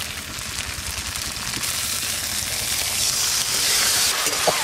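Onions and ground spice paste frying in oil in a steel wok, a steady sizzle that grows louder from about halfway through as the spice water from the grinding bowl is added to the hot pan and stirred in with a metal spatula.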